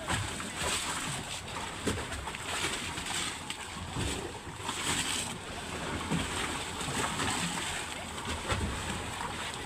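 Motorboat under way on open water, with water splashing against the hull.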